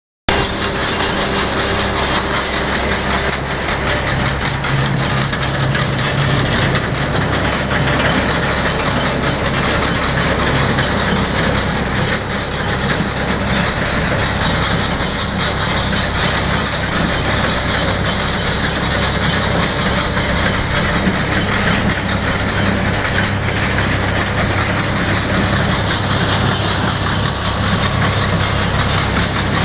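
Claas Rollant 62 round baler running steadily behind its tractor: the tractor's engine drones under a dense, even clatter from the baler's mechanism.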